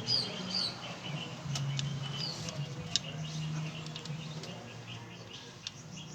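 Small birds chirping a few times over a low steady hum, with a few light sharp clicks, the sharpest about three seconds in.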